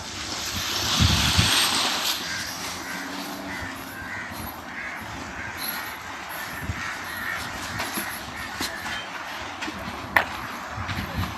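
Birds calling in short repeated notes over the steady wash of waves on a beach. A surge of noise about a second in is the loudest part, and there is a single sharp click near the end.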